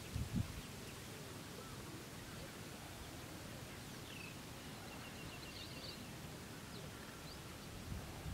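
Outdoor field ambience: a steady faint hiss with small birds chirping, including a short rapid trill, a few seconds in. A few low thumps come right at the start.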